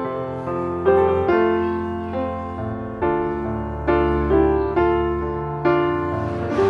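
Background piano music, notes struck roughly once or twice a second, each one fading before the next.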